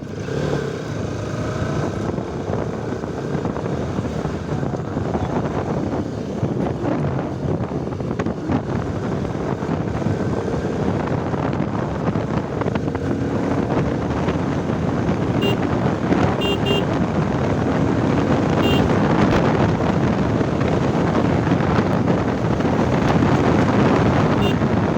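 Motorcycle on the move, its engine running steadily under heavy wind noise on the microphone, growing slowly louder as it picks up speed. A few short high beeps sound after the middle.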